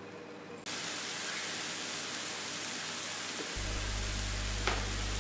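Carrot halwa sizzling as it fries in oil in a kadhai. The steady hiss starts suddenly about a second in, with a faint click near the end.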